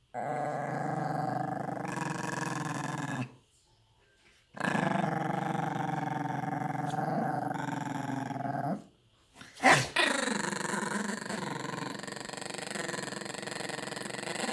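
A dog growling in long, drawn-out stretches, pausing twice for a moment. A sharp, louder sound cuts in just before the ten-second mark, and the growling then carries on.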